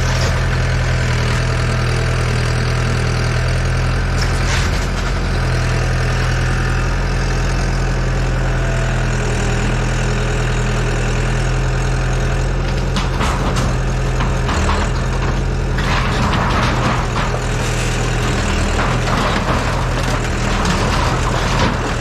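Diesel engine of a Yanmar Vio80 8-ton excavator running steadily. In the second half come bursts of rattling and scraping.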